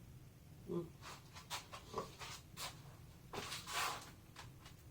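Light knocks, clicks and a scrape as a cut wooden board is handled and moved about, with no saw running.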